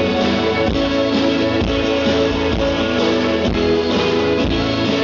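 Live rock band playing an instrumental passage led by strummed guitars, with a steady beat underneath.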